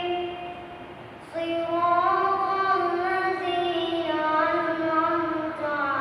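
A boy's voice chanting in Arabic with long held, melismatic notes, as in the call to prayer or Quran recitation at prayer. A held note ends just after the start, then after a pause of about a second a new long phrase begins and slides slowly between pitches.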